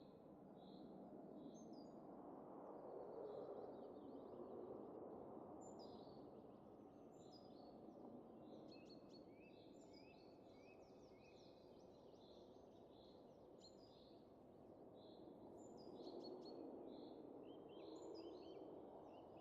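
Faint, soft wind that swells and eases in slow gusts, with small birds chirping in short repeated notes that grow busier partway through.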